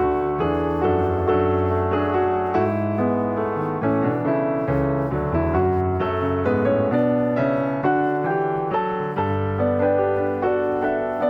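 Background piano music, a steady flow of gentle notes.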